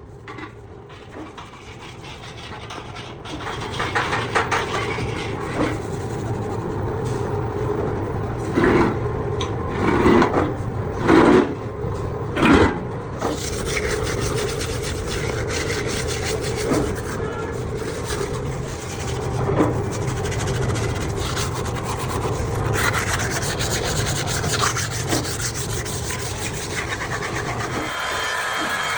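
Workshop metalwork noise: a steady rasping, rubbing sound with a few louder strokes about a third of the way through.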